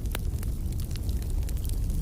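Wood fire burning: a steady low rumble of flames with scattered sharp crackles and pops, the strongest just after the start.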